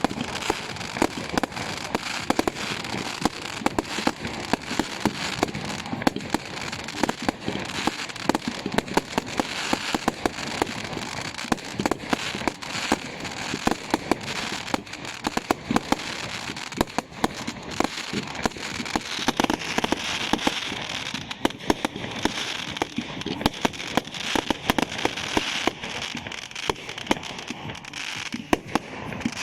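Fireworks display: a dense, unbroken run of bangs and crackles, many every second, over a hissing crackle that grows stronger in the second half.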